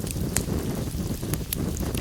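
Wood fire in a fireplace crackling: scattered sharp pops and snaps over a steady low rumble of the flames.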